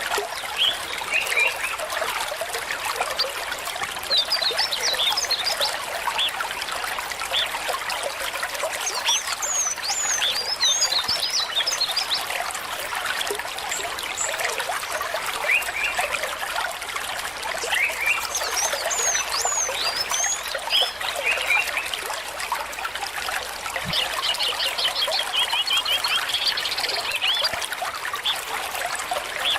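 A small stream trickling and babbling steadily, with birds chirping in short bursts of calls every few seconds.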